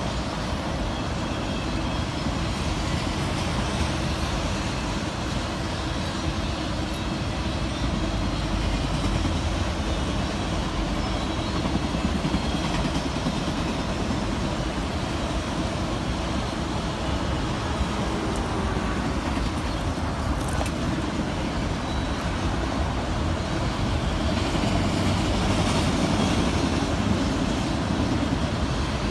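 Long autorack freight train rolling past, a steady noise of wheels on rail and rattling car bodies. Road traffic passes alongside toward the end.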